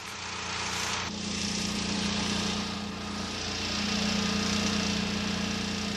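An engine running steadily with a hissing wash over it, its level swelling and easing gently twice.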